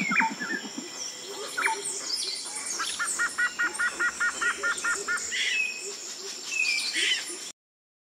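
Forest birds calling: assorted short chirps and whistled glides, with a run of about ten quick, evenly spaced double notes in the middle. The sound cuts off suddenly near the end.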